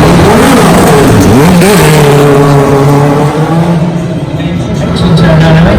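Racing car engine revving, its pitch swinging up and down in the first couple of seconds and then holding steadier, with background music playing.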